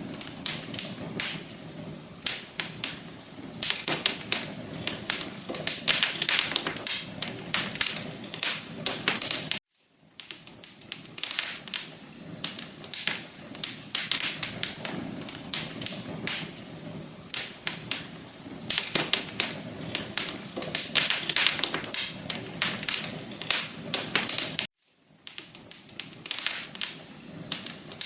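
Wood fire crackling in a fireplace, a dense run of sharp snaps and pops over a soft steady hiss. It cuts out briefly twice, about ten seconds in and near the end.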